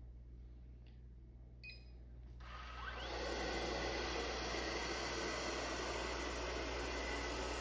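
A short electronic beep, then a small vacuum motor that whines up about two and a half seconds in and runs on with a steady, airy hiss. The likely source is the ILIFE V5s Max robot vacuum's suction motor starting.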